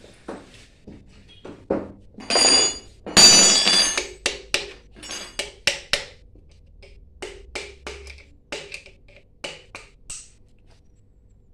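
Hand tools knocking and tapping on the metal parts of a booster pump being reassembled: a string of sharp taps, with two longer spells of scraping and ringing metal about two and three seconds in.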